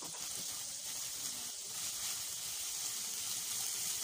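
Chopped spring onions sizzling steadily in hot oil in a non-stick wok as they fry.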